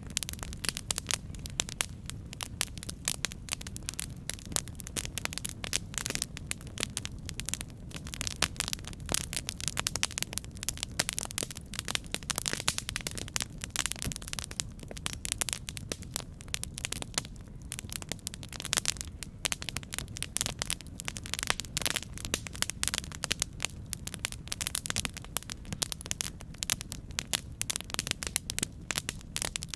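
Campfire burning, wood crackling with many small, irregular pops over a steady low rumble.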